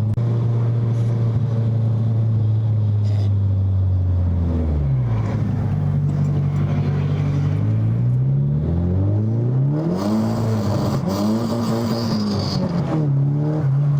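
Car engine running at a steady note, then dropping in revs about four and a half seconds in. It climbs again and rises and falls in pitch several times before settling back to a steady note near the end.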